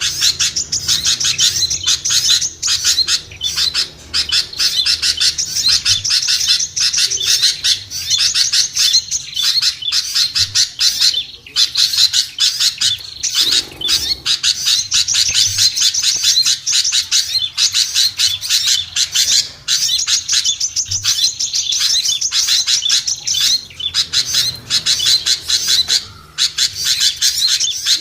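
Bird-lure recording of many small songbirds chattering at once: a dense, unbroken stream of rapid high chirps and twitters. It is the kind of noisy mixed small-bird call played to draw wary small birds down.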